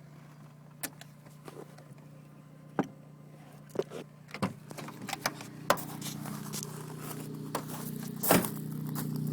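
Corsa B 1.2 16v engine running at a steady idle through a Sierra Cosworth exhaust, growing gradually louder. Scattered sharp clicks and knocks sound over it, the loudest near the end.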